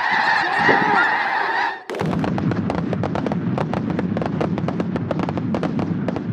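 A large flock of snow geese calling in a dense, continuous clamour. About two seconds in, the sound cuts abruptly to another stretch of choppy, overlapping calling.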